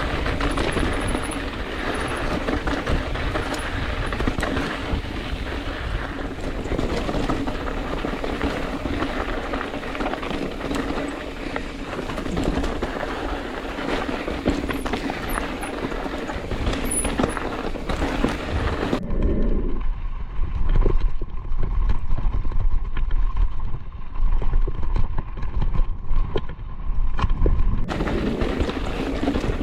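Mountain bike descending a rough mountain trail in strong wind, heard from the rider's camera: a steady rush of wind and trail noise with scattered rattles. About two-thirds of the way through, the sound turns deep and muffled with a steady hum for several seconds, then the full rush returns.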